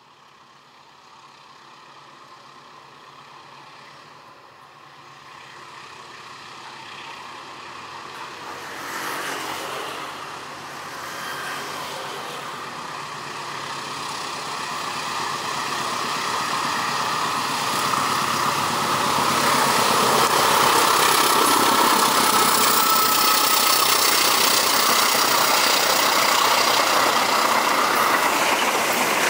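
CC206 diesel-electric locomotive hauling a passenger train, its engine and rolling noise growing louder as it approaches and passes close by. Near the end the coaches roll past with wheel-on-rail noise.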